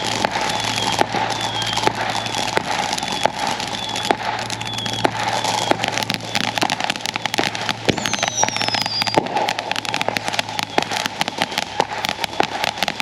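Fireworks going off: dense crackling and popping over a steady hiss, with short whistles repeating about every two-thirds of a second and one longer falling whistle about eight seconds in.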